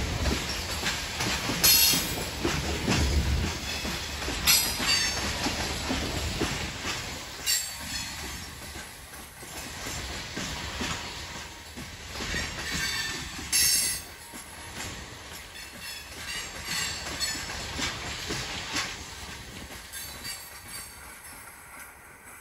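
Loaded coal hopper cars of a freight train rolling past, with a steady rumble and clatter of wheels on the rails. Brief high-pitched wheel squeals come every few seconds, and the sound grows fainter toward the end.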